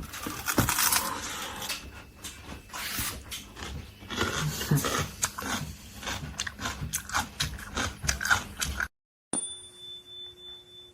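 Someone crunching and chewing raw fruit radish close to the microphone: a run of sharp, irregular crunches that cuts off suddenly about nine seconds in.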